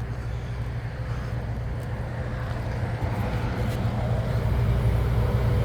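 Ford F450 bucket truck's gasoline engine idling steadily with a low, even hum.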